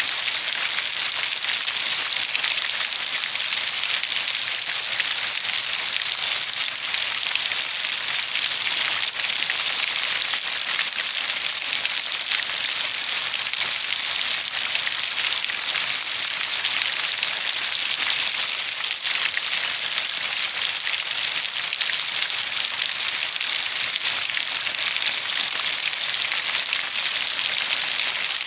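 Steady heavy rainfall: an even hiss of rain with the patter of many drops on a surface.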